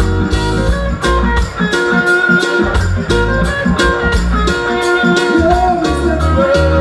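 Live reggae band playing an instrumental passage with no vocals: a deep bass line, guitar and a steady drum beat.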